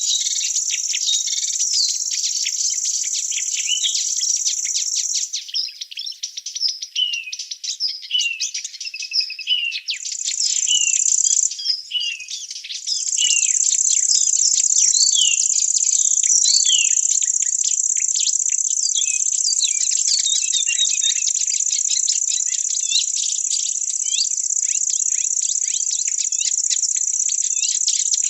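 Forest ambience: an insect's high, steady trill that cuts out about five seconds in and takes up again, briefly near ten seconds and then for good a few seconds later, with many small birds chirping throughout in short, quick falling notes.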